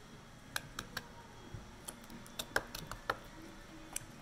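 Chewing candy with the mouth open: an irregular series of sharp, wet clicks and smacks, about ten in four seconds.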